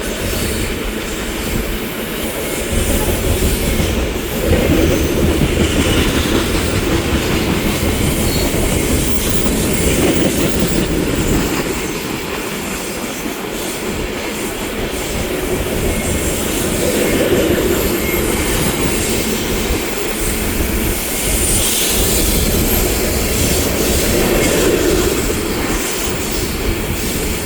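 A BNSF coal train's cars rolling past, their steel wheels running on the rails in a continuous rumble and clatter that swells and eases.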